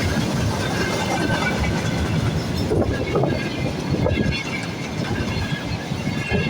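Freight train wagons rolling steadily past at speed, their wheels clattering on the rails, with a thin steady squeal from the wheels.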